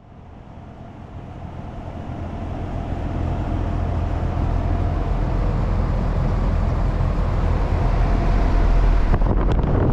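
A 2004 Sanyo (Airwell) heat pump running in heat mode: a steady low hum with a whooshing air noise, growing louder over the first few seconds and then holding steady.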